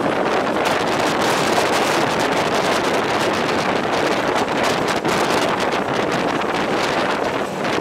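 Wind rushing past the microphone aboard a passenger train running at speed, over the steady noise of the coach's wheels on the track.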